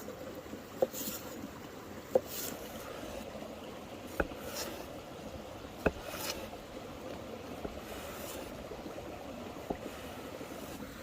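Mountain river running steadily, with a short sharp click or knock every second or two.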